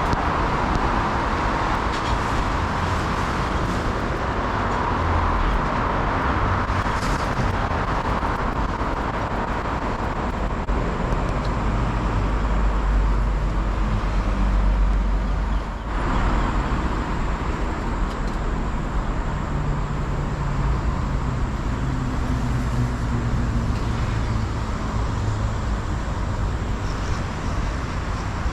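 Steady road traffic noise: passing cars and heavier vehicles with a constant low rumble, and a low engine drone swelling and fading in the second half.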